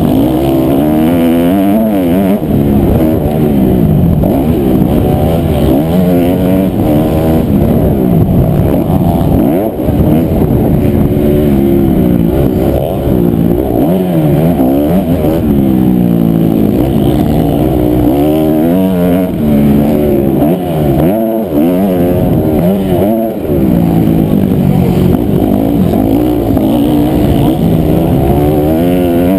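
Honda CRF250R's single-cylinder four-stroke engine, loud and close, revving up and dropping back again and again, each rise lasting a second or two, as the bike is ridden hard over a motocross track.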